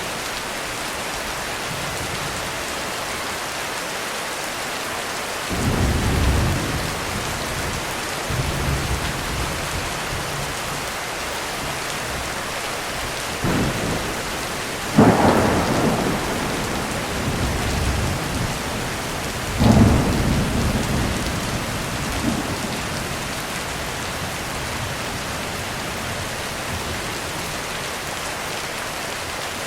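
Heavy rain falling steadily, with thunder over it. A low rumble rolls in about five seconds in, then several claps come in the middle, the loudest about halfway through, each followed by rumbling that dies away.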